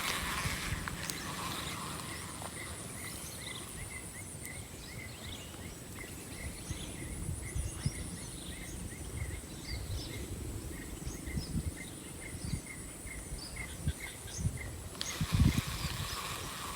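Insects calling: a steady high-pitched buzz, with a short chirp repeating about twice a second. Scattered low knocks and bumps come through, loudest near the end.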